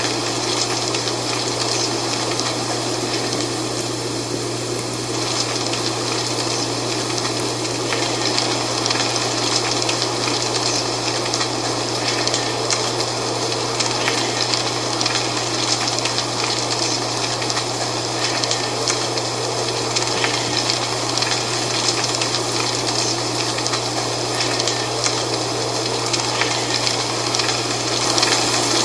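Dry fall leaves rustling steadily in the wind, a continuous crackly hiss, over a constant low hum.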